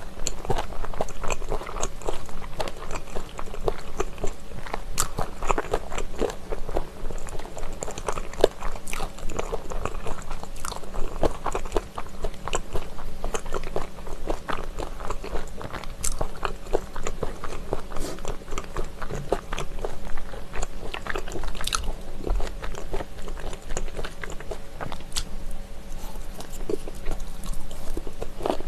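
Close-miked chewing of spicy chicken feet: crunching cartilage and wet mouth sounds in a dense, irregular run of small crisp clicks and bites.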